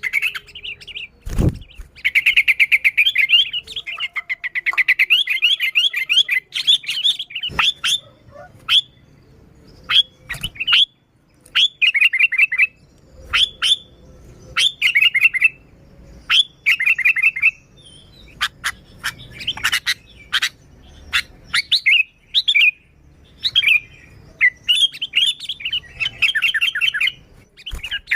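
Sooty-headed bulbul (kutilang) calling energetically in repeated bursts of rapid chattering notes with short pauses between them, a bulbul in full 'gacor' song. A single sharp knock sounds about a second and a half in.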